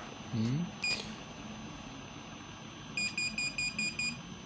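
TAU2 engine temperature protector's over-temperature alarm beeping: one short high beep, then a fast run of about seven beeps. The beeping signals the temperature is above the set critical point, with more beeps the hotter it gets.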